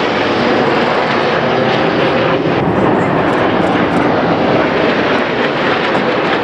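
Two Red Arrows BAE Hawk T1 jets flying past in a stern pass, a steady, loud rush of jet engine noise.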